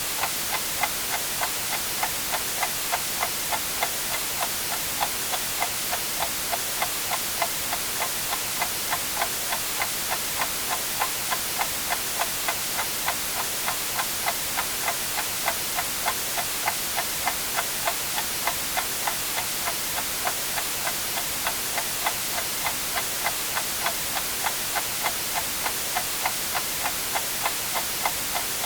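Clock ticking steadily, about two ticks a second, over a constant bed of white noise hiss.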